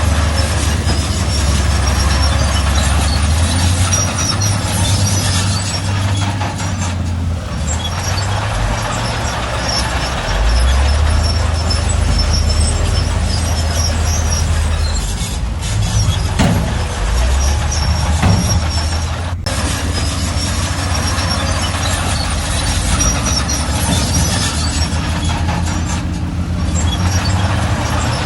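Heavy diesel earthmoving machinery running under load. A low engine note shifts in pitch and level every few seconds, under a steady clattering hiss.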